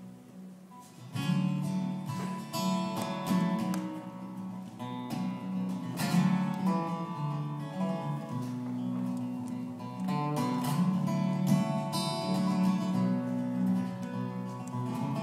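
Acoustic guitar playing an instrumental passage of a country song live, picked and strummed, coming in fuller about a second in.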